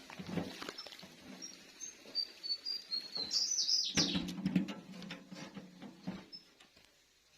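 Small birds chirping in short high notes, with scattered sharp knocks; about four seconds in a low, rough sound starts with a knock and runs for about two seconds, louder than the birds.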